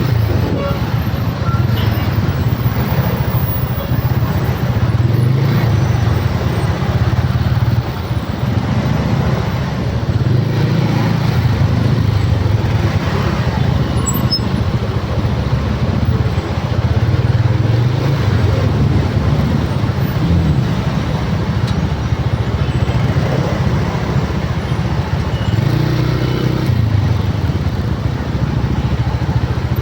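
Motor vehicle running steadily, a loud low engine drone that swells and eases every few seconds over steady road noise.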